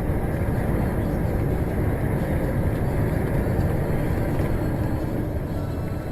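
Steady road and engine rumble of a moving car, unchanging throughout.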